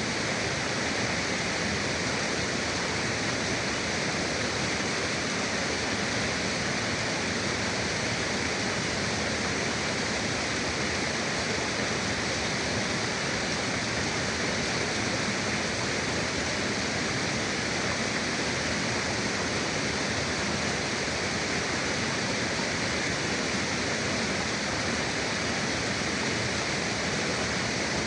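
A river rushing steadily, a continuous even wash of flowing water.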